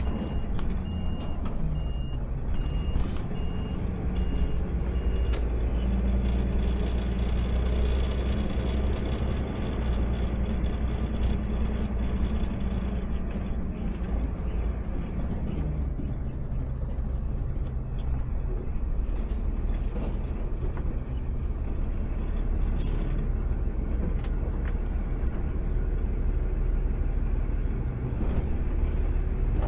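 Automated side-loader garbage truck's engine running, heard from the driver's seat. Its pitch steps up about six seconds in, holds higher for about ten seconds, then drops back to idle. A pulsing beep sounds over the first few seconds, with scattered clicks and knocks.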